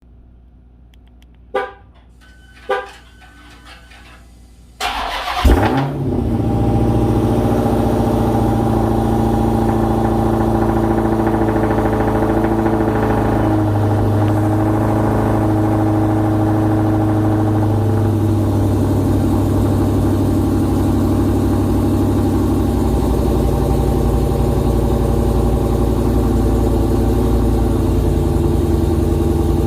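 Two short beeps, then a Dodge Challenger Hellcat's supercharged 6.2-litre Hemi V8 cranks and fires on a cold start with a loud flare. It settles into a steady fast idle, heard through cat-delete pipes, and the idle steps down slightly later on.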